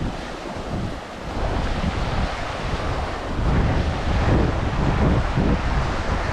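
Ocean surf washing onto a beach, with wind buffeting the microphone; the wind rumble grows stronger about halfway through.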